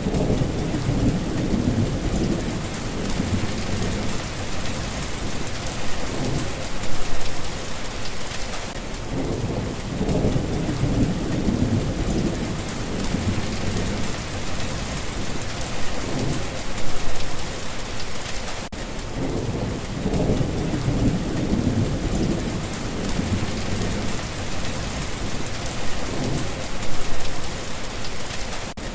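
Steady heavy rain hissing on surfaces, with low thunder rumbling in swells about every ten seconds.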